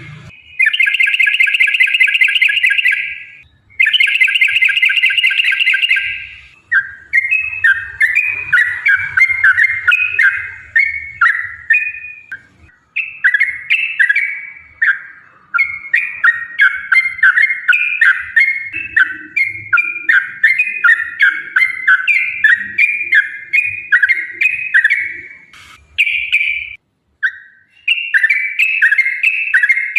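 Yellow-vented bulbul (trucukan) singing full 'ropel' song. It opens with two long, rapid rolling trills, then runs on in near-continuous strings of quick, bubbly chattering phrases.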